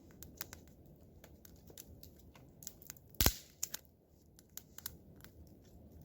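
Wood campfire of stacked logs (a reverse, upside-down fire) crackling, with scattered small pops and one loud sharp pop about three seconds in.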